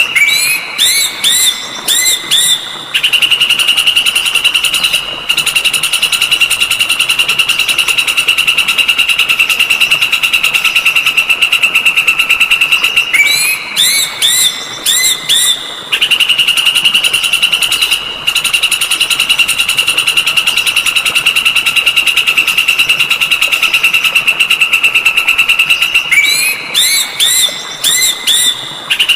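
Songbird tutor recording looping the same song: a burst of four or five quick rising whistled notes, then a long, fast, even rattling trill lasting about ten seconds. The pattern comes round three times.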